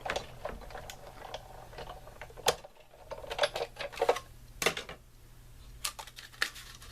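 Sizzix Big Shot manual die-cutting machine being hand-cranked, a sandwich of cutting plates, metal dies and cardstock pressed through its rollers: irregular clicks and knocks with short scraping sounds.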